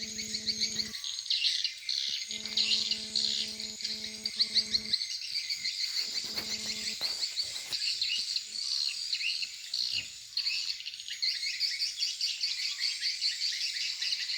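Dense, continuous twittering of swiftlet calls, many quick chirps a second, from the lure-sound tweeters of a swiftlet house. A steady low electrical hum cuts in and out several times during the first half.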